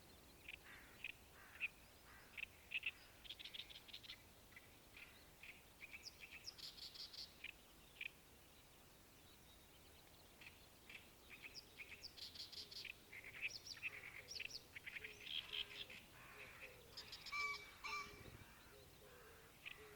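Wild birds chirping and calling in quick runs of short notes, with a lull of about two seconds midway.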